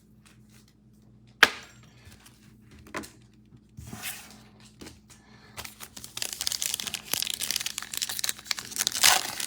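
Trading-card packaging being handled and torn open: a sharp click about a second and a half in and another about three seconds in, then dense crinkling and tearing from about halfway on.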